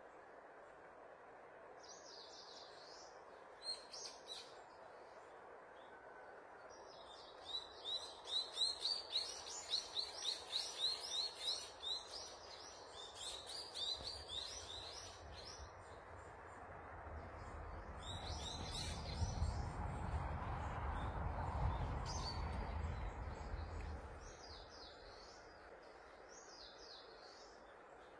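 Birds chirping and singing over a steady background hiss, with a rapid run of calls in the first half. A low rumble swells and then fades in the second half.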